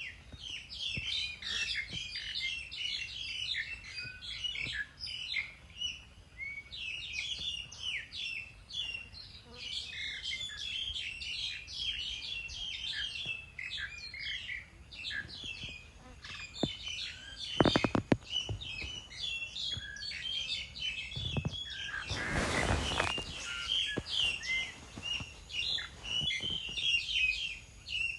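A chorus of small birds chirping and twittering without pause. A few sharp clicks come about 18 s in, and a brief burst of rustling noise comes around 22 s.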